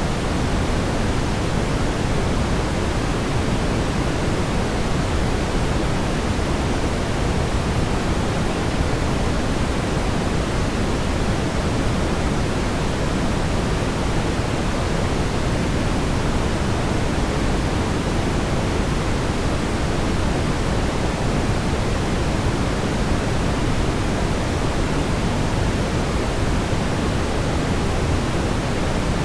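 Steady brown noise: an even, deep rumbling hiss, strongest in the low end, that does not change.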